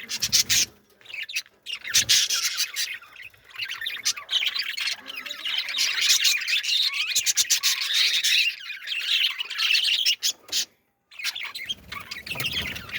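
Birds chirping and squawking, many calls overlapping, with a short silent break near the end.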